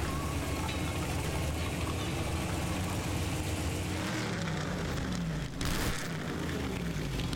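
Classic V8 racing car engines running at low revs in the pit lane. The revs rise a few seconds in as a car pulls away, and a short loud blast comes about six seconds in.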